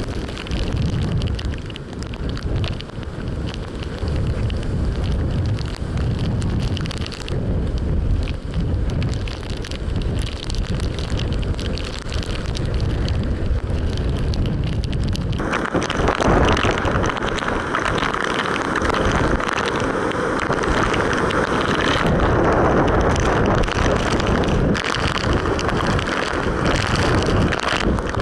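Hurricane-force wind buffeting the microphone in heavy low gusts. About halfway through, a louder, higher rushing hiss sets in, as of driving rain or spray.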